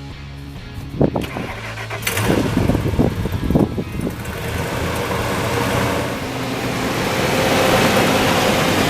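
Ford F-150 pickup engine cold-starting after winter storage: a few sharp cranking strokes, then it catches quickly within a few seconds and settles into a steady idle.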